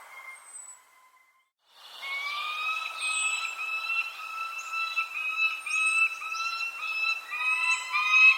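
Birdsong: one bird gives a rapid run of nasal, pitched calls, several a second, while another adds thin high down-slurred chirps every second or two. The sound drops out briefly about a second in before the calls begin.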